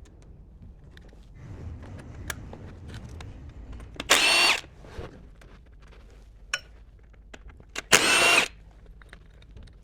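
Cordless power tool run in two short bursts, each about half a second long and some four seconds apart, with a high motor whine: two M10 gearbox-mount bolts being undone.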